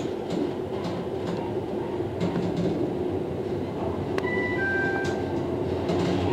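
Train running on the tracks: a steady running hum with scattered wheel clicks over rail joints, and two brief high squeal tones a little past the middle.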